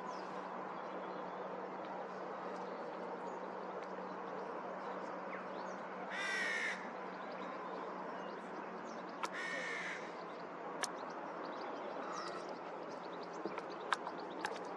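A bird gives two short, harsh calls about three seconds apart, over a steady low hum.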